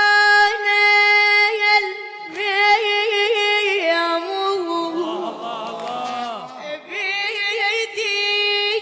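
A boy's high voice chanting an Arabic devotional poem with long held, ornamented notes, with a stretch of sliding, overlapping pitch glides in the middle.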